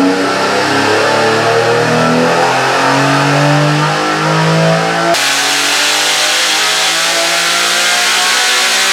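Built, naturally aspirated Buick V6 running hard on an engine dyno. It holds and steps between engine speeds, then about five seconds in the sound changes suddenly and the revs climb slowly and steadily, as in a dyno pull.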